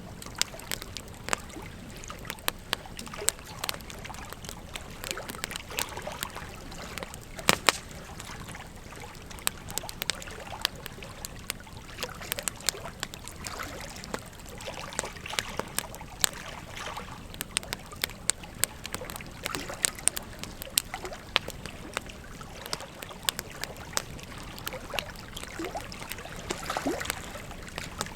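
Wood fire crackling, with frequent irregular sharp pops, over the steady rush of a flowing river. One pop about seven seconds in is louder than the rest.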